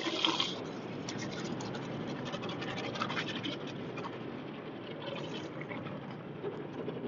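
Automatic car wash working over the car, heard from inside the cabin: a steady rush of water and scrubbing against the body, full of fine crackles and scrapes.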